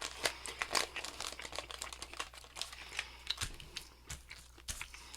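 Chocolate bar wrapper crinkling and crackling as it is handled, in a quick irregular run of small sharp crackles.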